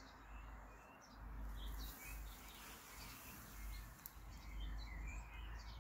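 Faint birdsong: small birds giving scattered short chirps, over a low steady rumble.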